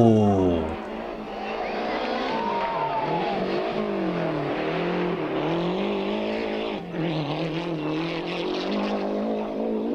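Rally car engine at high revs, its pitch falling steeply at the start, then climbing and dropping again and again with throttle and gear changes, with a brief break about seven seconds in.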